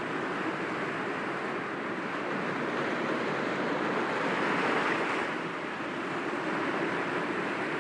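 Sea waves breaking gently against rocks: a continuous wash of surf that swells to a peak about five seconds in, then eases.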